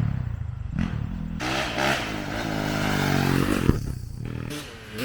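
Dirt bike engine running, its pitch falling steadily over about two seconds; a sharp click comes a little before four seconds in.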